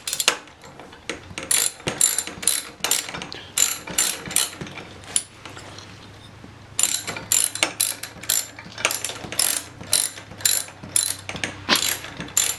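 A ratchet wrench clicking in quick runs as the cylinder head bolts of a 50cc pit bike engine are tightened, with a brief pause about halfway through.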